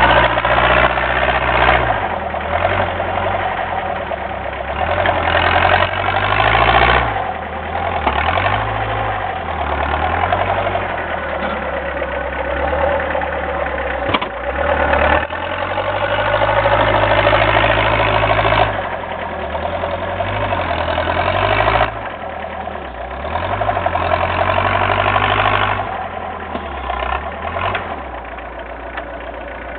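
Homemade doodlebug tractor's engine running while plowing heavy wet snow, its note and loudness rising and falling every few seconds as the load changes.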